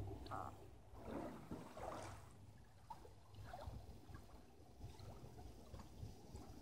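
Faint water sounds around a kayak: soft splashes about one and two seconds in, then light trickling and dripping.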